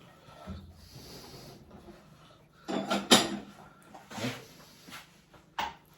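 A few sharp knocks and clatters of household things being handled, the loudest about three seconds in, with smaller ones near four and five and a half seconds.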